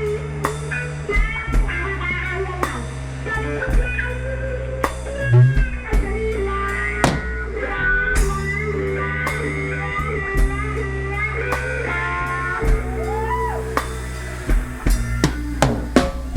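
Live blues band playing an instrumental passage without vocals: a guitar lead with bent notes over a drum kit and low sustained bass.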